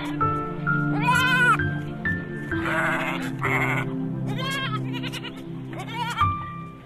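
A goat bleating several times in short, quavering calls, over background music with steady held tones.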